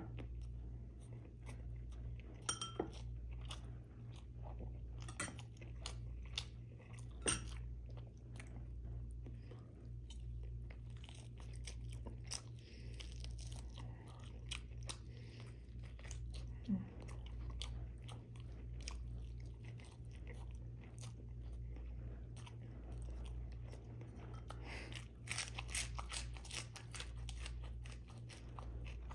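Close-miked chewing of a person eating beef ribs and rice by hand, with scattered sharp mouth clicks, over a low steady hum.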